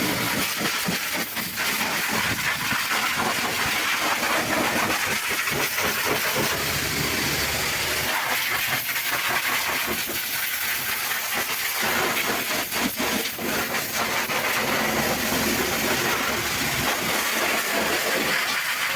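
High-pressure washer jet spraying water over a truck engine: a steady hiss whose lower splashing shifts as the spray moves across surfaces.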